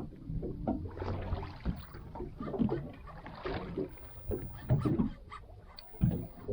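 Irregular knocks and noisy water and handling sounds aboard a small boat during the fight with a hooked fish, with sharp thumps about five and six seconds in.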